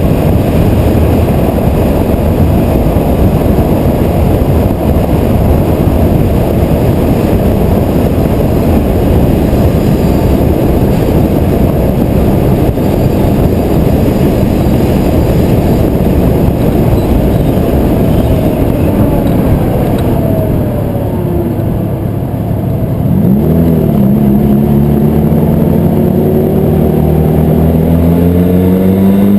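Car engine under heavy wind and road noise at highway speed. About twenty seconds in the engine note falls and eases off, then climbs steadily as the car accelerates hard.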